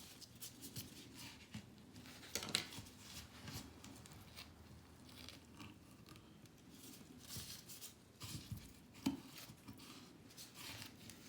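Faint scraping and clicking of a small bottle brush being worked down a sink drain to pull out a clog, with a few sharper clicks about two and a half seconds in and near the nine-second mark.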